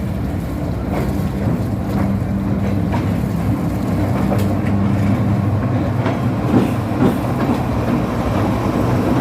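Passenger train arriving at a station: the diesel locomotive's steady low engine hum, with the clickety-clack of the carriages' wheels knocking over rail joints, the knocks coming more often in the second half.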